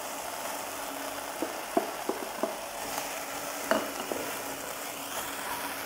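Drumstick (moringa) leaves with ground peanut and dried chilli powder frying in oil in a nonstick pan, a steady sizzle, while a wooden spatula stirs them with a few light knocks against the pan.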